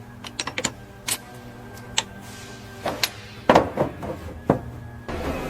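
Irregular sharp metal clanks and clicks, as of hand tools and steel parts knocking during the dismantling of a heavy bulldozer, over a steady low hum. Near the end the sound changes to a steady noisy rumble.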